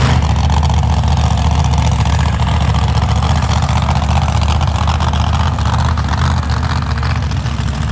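A loud vehicle engine running at a steady speed, its note easing off about seven seconds in.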